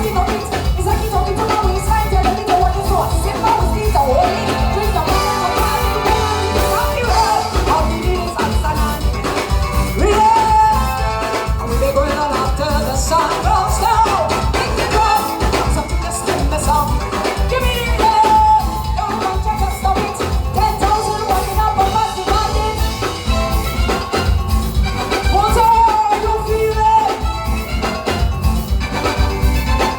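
Live soca band playing with a woman singing lead over a steady drum and bass beat.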